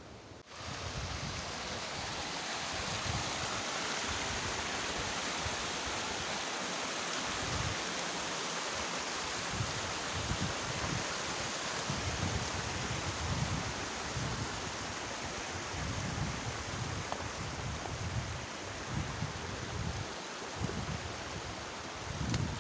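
Steady rushing outdoor noise, starting abruptly about half a second in, with irregular gusts of wind buffeting the microphone.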